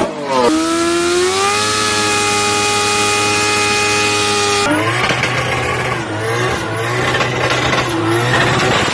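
An engine revs up and is held steady at high revs for about four seconds, then cuts off abruptly. A lower, rougher car engine follows, with wavering tyre squeal as the car slides sideways in a drift.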